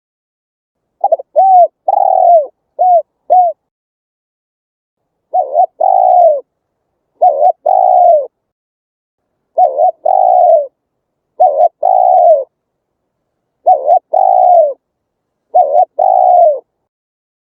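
Spotted dove cooing. About a second in comes a run of short coos, then a pause. After that, a two-part coo (a short note, then a longer falling note) repeats about every two seconds.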